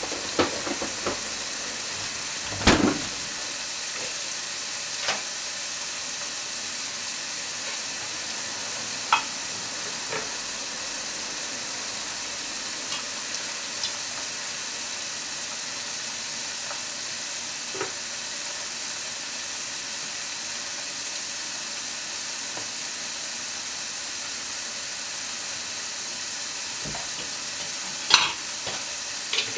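Meat-wrapped potatoes frying in a covered frying pan: a steady sizzle under the glass lid, with a few sharp pops, the loudest about three seconds in and near the end.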